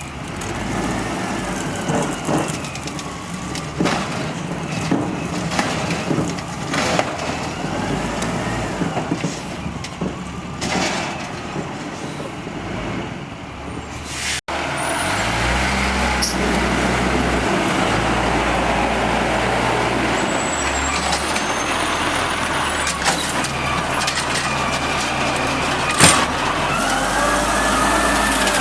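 Automated side-load garbage truck working: its diesel engine revs up and down over and over with a rising-and-falling whine, with sharp knocks and clanks in between. A hard break about halfway through is followed by a steadier engine note.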